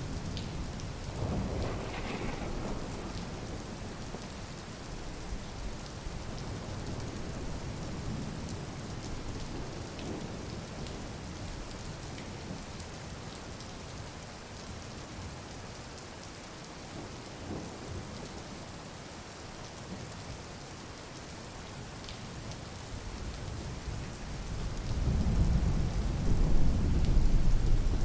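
Steady rain falling, with a low rumble of thunder swelling up near the end.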